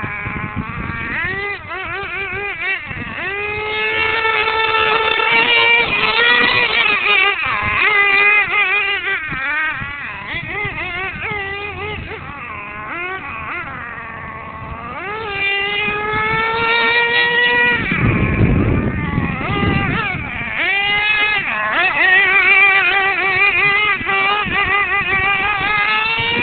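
An RC monster truck's motor running with a high whine whose pitch keeps rising and falling as the truck speeds up and slows down. About two-thirds of the way through, the whine briefly gives way to a rough, low noise.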